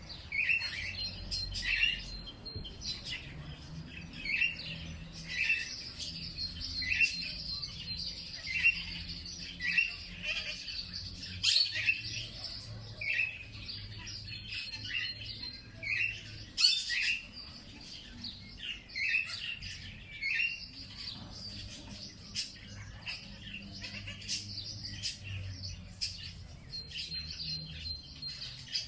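Birds chirping: one bird repeats a short chirp about once a second, over a thin, high, steady trill that starts and stops, with a few sharper louder notes mixed in.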